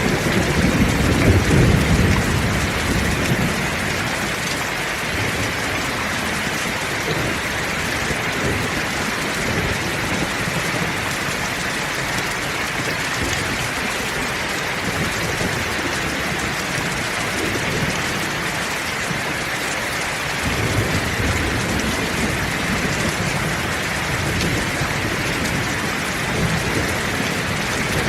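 Heavy rain falling steadily, with low rolling thunder rumbling at the start and again from about two-thirds of the way through.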